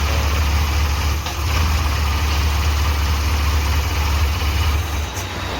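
Suzuki Carry 1.0 engine idling steadily.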